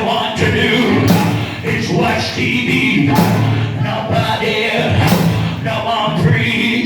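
Live gospel music from a church band, with cymbal crashes every few seconds over sustained instruments and voices singing.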